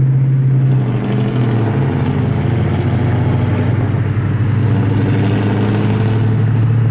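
Ford Mustang V8 engine running at a steady cruise, a deep continuous drone that eases slightly lower in pitch about a second and a half in.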